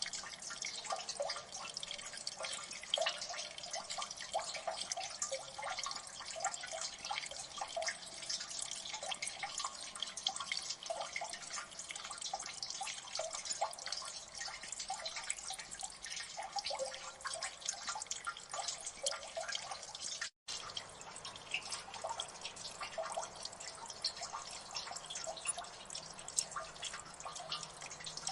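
Water dripping in a gully: many drops falling at once in a steady, irregular patter of small plinks. The sound cuts out for an instant about two-thirds of the way through.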